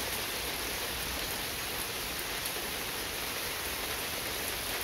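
Steady rain falling, a continuous even patter of drops on surfaces.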